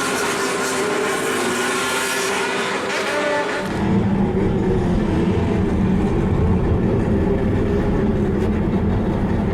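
Motorcycle engines revving hard through loud exhausts. About four seconds in, the sound changes to a deeper, heavier engine drone.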